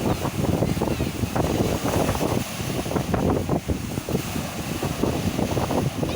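Wind buffeting the microphone in uneven gusts, a low rumbling rush that surges and drops.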